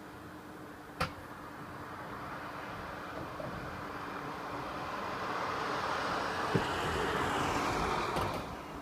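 A road vehicle passing, its engine and tyre noise building steadily and then falling away near the end, with a sharp click about a second in.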